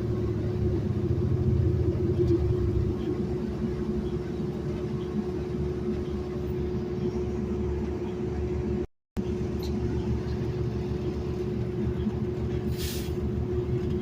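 Riding inside a city bus: steady engine and road rumble under a constant hum. The sound cuts out for a moment about nine seconds in, and a short hiss of air comes near the end.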